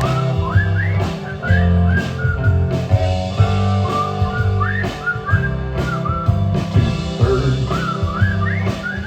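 Several people whistling a tune in short notes that swoop upward, over a live band's guitar and bass.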